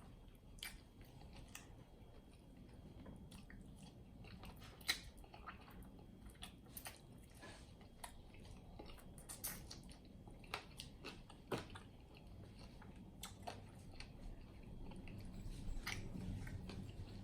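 A person chewing and biting into sauced fried chicken wings, with wet mouth smacks and short clicks scattered irregularly throughout; the sharpest click comes about five seconds in.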